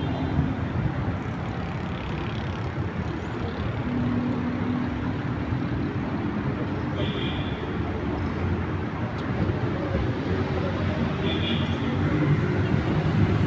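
Steady city traffic noise, a continuous low rumble of passing vehicles, with a held engine tone for a few seconds midway. Two brief high-pitched sounds come about seven and eleven seconds in.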